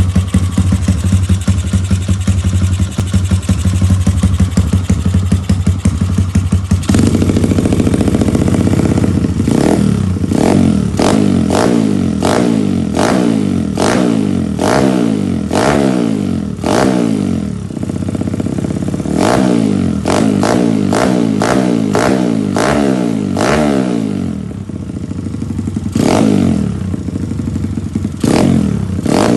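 Bored-up Kawasaki KLX single-cylinder engine through a loud aftermarket racing exhaust, idling steadily for about seven seconds, then revved in quick repeated throttle blips, each dropping back toward idle.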